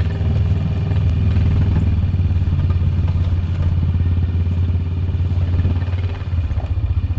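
Four-wheeler (ATV) engine running steadily with a low drone, dropping off near the end.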